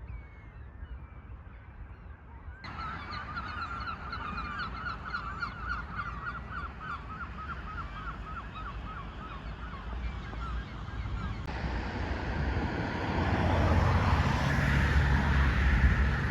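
A flock of estuary waterbirds calling, a fast run of short repeated calls that stops abruptly. After that a low rumble swells, the sound of road traffic.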